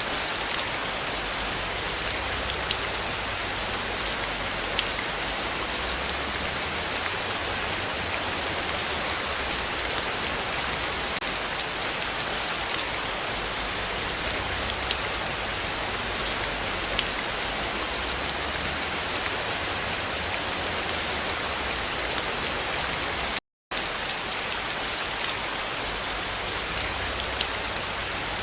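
Heavy rain falling steadily: a dense, even hiss with single drops ticking through it. The sound cuts out completely for a split second about 23 seconds in.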